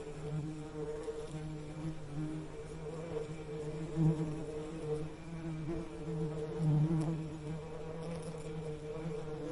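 Bees buzzing: a steady, wavering hum that swells and fades, loudest about four seconds in and again near seven seconds.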